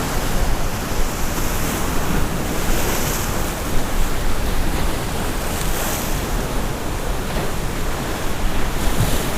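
Heavy surf from tropical-storm swells breaking and washing against the rock jetty in a steady rush that swells now and then, with wind on the microphone.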